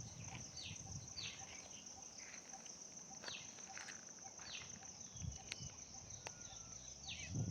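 Short falling bird chirps, repeated irregularly about once a second, over a steady high-pitched insect drone like crickets.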